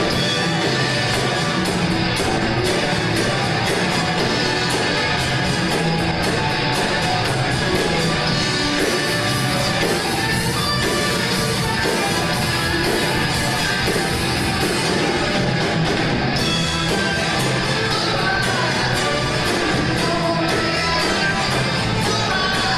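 Live band playing a song with a vocalist singing over a steady drum beat.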